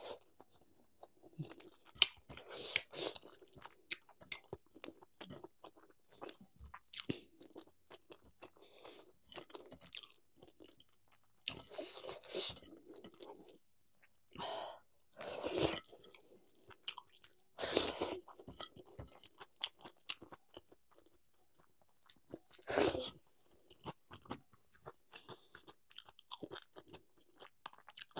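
A person chewing food with wet mouth clicks, broken by a handful of louder crunching bites spread through.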